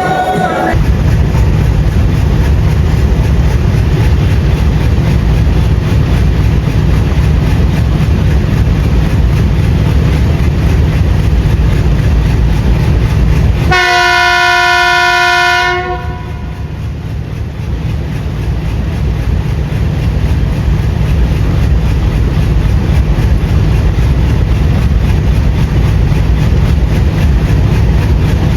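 Train running with a steady low rumble. Midway through, a locomotive horn sounds one long blast of about two seconds, and the rumble returns after it.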